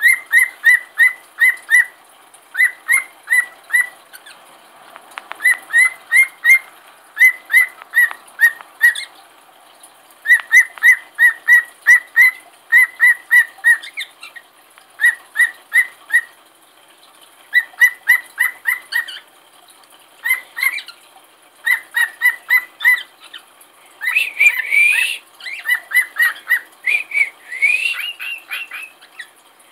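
Pet cage bird chirping in quick runs of four to six short notes, about five a second, with short pauses between runs. A few louder rising whistles come near the end.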